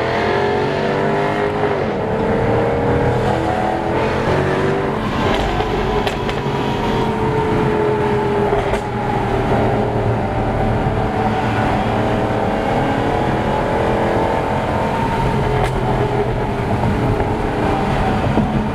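Car engine running under way, its revs slowly rising and falling.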